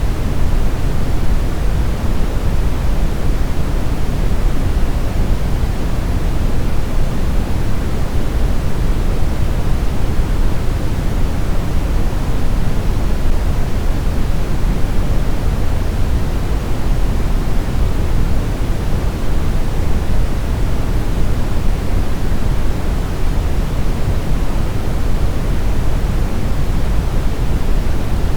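Steady, unbroken brown noise: an even, deep rumbling hiss with most of its energy low down and little at the top.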